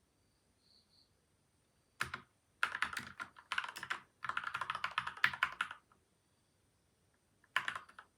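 Typing on a PCL87 mechanical keyboard with lubed linear switches (Gateron Milky White and Outemu Yellow), taped and foam-dampened: a short burst of keystrokes about two seconds in, then a fast run of typing for about three seconds, a pause, and a few more keystrokes near the end.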